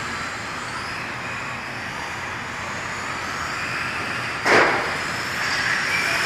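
Electric radio-controlled cars running on a carpet track, their motors giving a high whine that rises and falls as they speed up and slow down. A short, loud burst of noise comes about four and a half seconds in.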